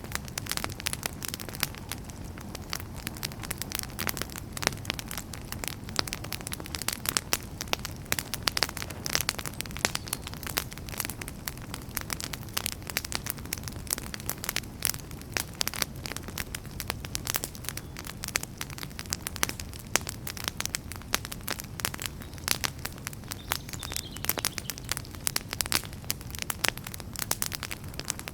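Wood fire burning in a fireplace: many sharp crackles and pops at irregular intervals over a steady low rumble of flames.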